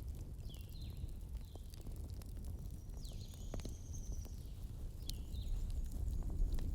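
Wood fire burning with a steady low rumble and scattered sharp crackles and pops. Faint high chirping whistles come and go, with one longer thin whistle about three seconds in.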